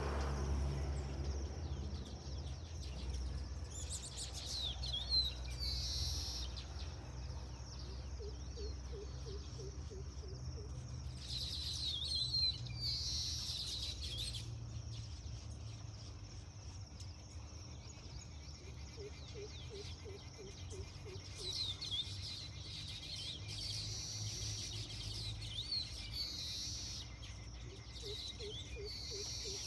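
Baya weavers giving bursts of high, twittering chirps and chatter, in several clusters a few seconds apart, over a steady low rumble.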